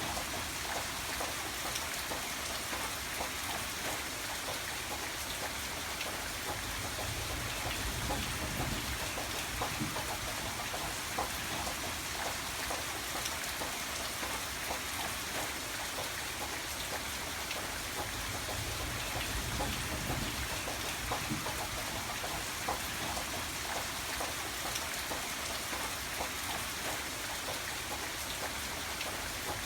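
Steady heavy rain, a dense even hiss dotted with many separate drop ticks. A soft low rumble swells and fades twice beneath it.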